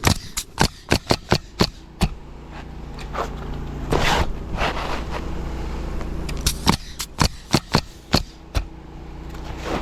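Pneumatic roofing nailer firing in quick runs as shingles are nailed down: about nine shots in the first two seconds and another run in the second half. A scraping rustle comes about four seconds in, over a steady low hum.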